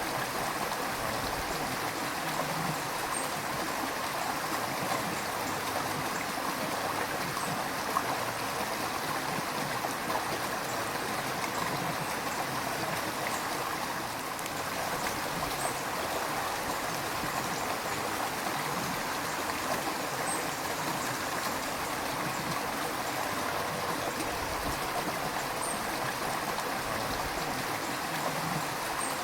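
River water flowing and gurgling steadily over stones, a continuous even rush.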